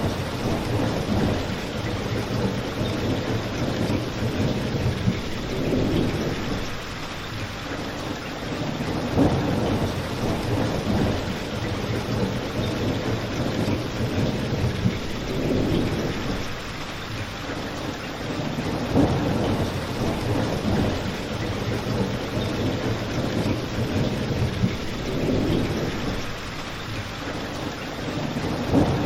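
Steady heavy rain with a low rumble that swells and fades about every three seconds.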